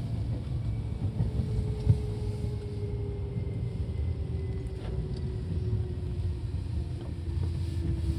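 Seibu 2000 series electric commuter train running: a steady low rumble of wheels on rail, with a motor whine that slowly falls in pitch. One sharp knock comes about two seconds in.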